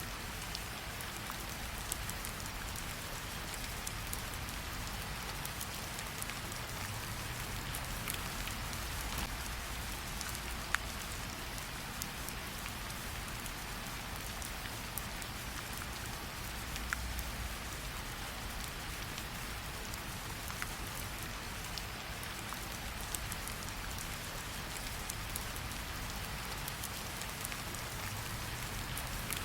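Steady rain falling in an even hiss, with a low rumble beneath and scattered sharp crackles and pops from a campfire.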